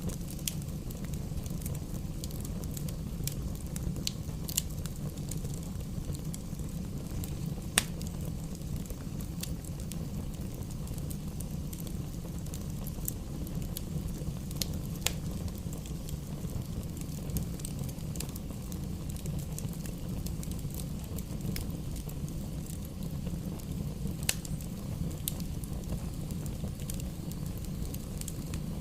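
Fire burning in a fireplace: a steady low rumble with scattered sharp crackles and pops, a few of them louder.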